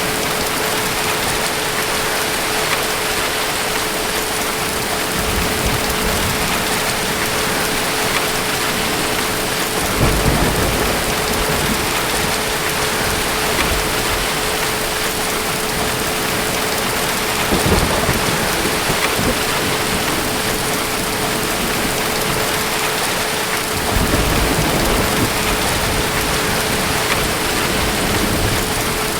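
Steady rain with distant thunder rumbling low several times, about five, ten, seventeen and twenty-four seconds in; the rumble about ten seconds in is the strongest.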